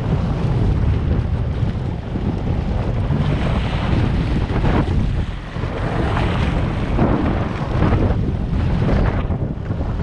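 Wind buffeting the microphone while a 1999 Sea-Doo XPL personal watercraft runs over choppy water, with rushing swells of spray and splashing several times.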